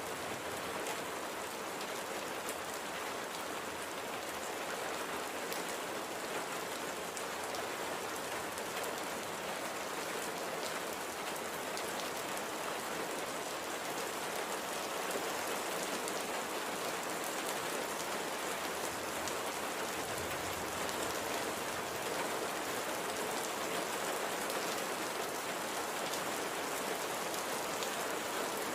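Steady light rain falling, an even hiss of many small drops with fine scattered drips.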